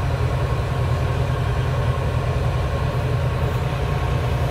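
Semi-truck diesel engine running steadily, a deep low rumble.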